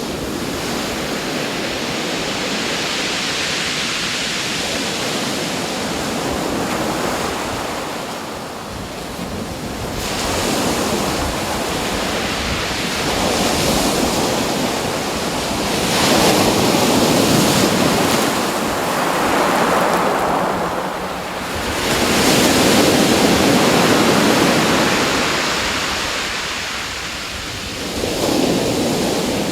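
Rushing water, probably waves, swelling and easing every few seconds.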